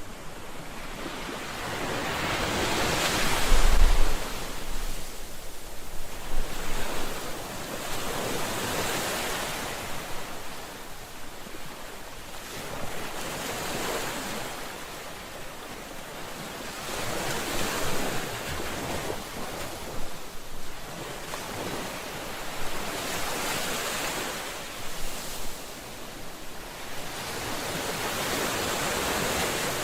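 Ocean waves breaking on a shore, one after another about every five or six seconds, each surging up and washing back out. The heaviest break comes about four seconds in, with a deep thud.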